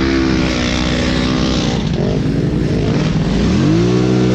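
The engine of an off-road dirt bike or ATV revs up and holds, eases off about two seconds in, then revs up again about three and a half seconds in, over a steady rushing noise.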